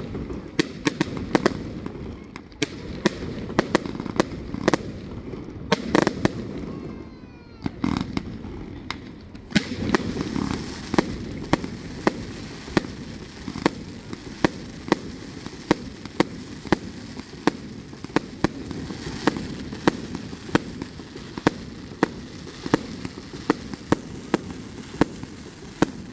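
Fireworks display: a dense run of sharp shell bursts and crackles, often about two a second, over a steady low rumble. A whistle rises briefly about seven seconds in.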